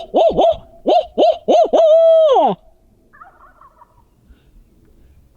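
Barred owl locator call hooted by a turkey hunter to make a roosted turkey shock-gobble. It gives two quick groups of rising-and-falling hoots, then one long drawn-out hoot that falls away. A faint short call comes about three seconds in.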